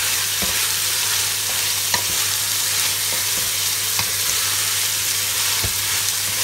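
Sliced bitter gourd sizzling in a metal pot of sautéed tomato, onion and garlic while a wooden spatula stirs it, with a few light knocks of the spatula against the pot.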